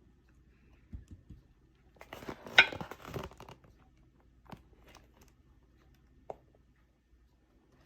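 A brief crinkling rustle of something being handled, loudest about two and a half seconds in, with a few scattered small clicks and knocks.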